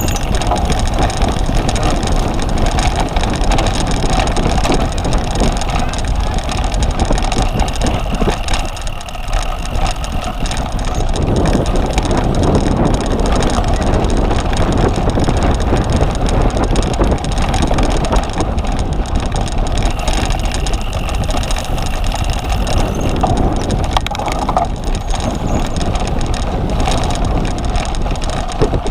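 Continuous noise of a cyclocross bicycle being ridden, with wind rushing over the microphone; it eases briefly about eight seconds in.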